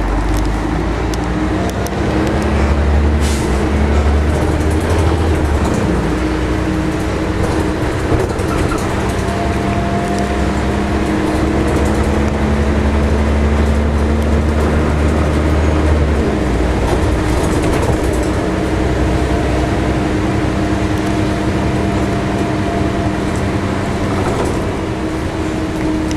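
Scania L113-CRB bus's 11-litre six-cylinder diesel engine running under way, with a low steady drone whose pitch shifts a few times, most clearly about 2, 6 and 16 seconds in. A single sharp click comes about 3 seconds in.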